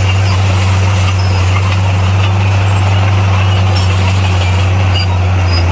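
Bulldozer's diesel engine running at a steady, low drone, with faint scattered clicks above it.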